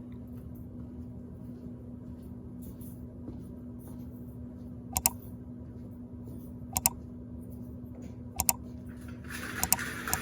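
Steady low machine hum with one constant tone, broken by single sharp clicks about every two seconds. Near the end a louder hiss comes in with a few more clicks.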